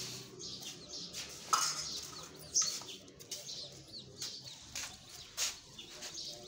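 Birds chirping in the background, short high chirps, with a few brief sharp noises in between.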